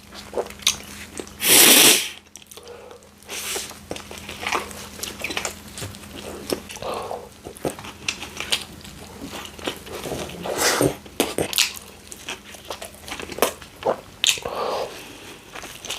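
Close-miked eating sounds: biting and chewing a meatball sub, with many wet mouth clicks and smacks and a louder noisy burst about two seconds in.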